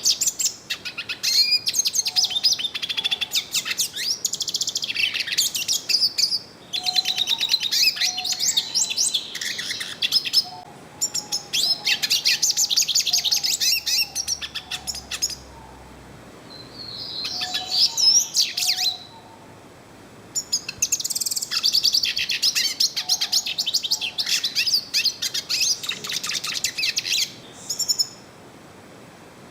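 Yellow-faced siskin (pintassilgo-do-nordeste) singing long, rapid twittering phrases of high chirps and trills, broken by short pauses of a second or two.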